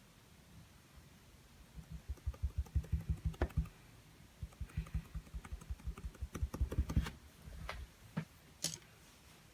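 Rapid dull tapping of paint being dabbed onto a small stretched canvas, in two quick runs of about seven taps a second, followed by a few sharper clicks near the end.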